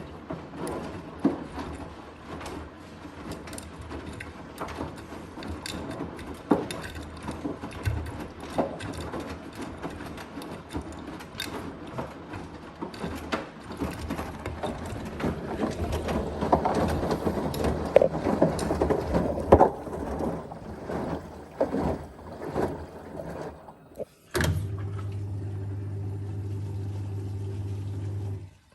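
Blomberg RapidJet washing machine running, with water sloshing and repeated irregular knocks from inside the machine, the recurring knocking fault the owner complains of. Near the end the washing noise stops suddenly and a steady low hum takes over, then cuts off.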